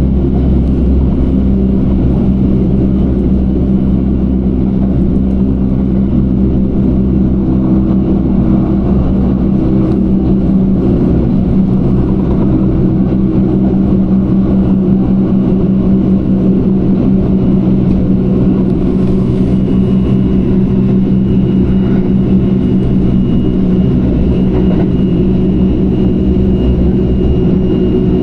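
Electric passenger train running, heard from inside the carriage: a steady low rumble with a constant hum and a faint thin whine above it.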